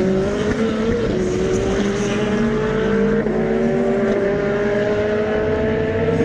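Race car engine accelerating on the circuit, its note climbing steadily with two short dips at gear changes, about a second in and about three seconds in.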